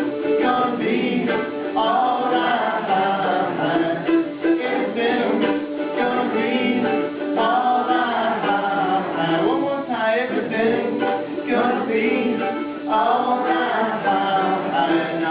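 Live acoustic folk music: a Weber Bitterroot mandolin picked and strummed with guitar, with voices singing along.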